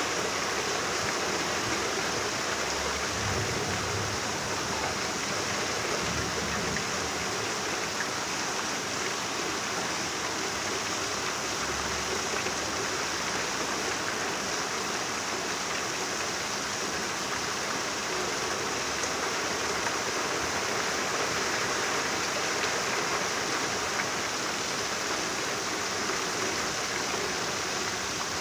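Rain falling steadily, an even hiss that holds without breaks.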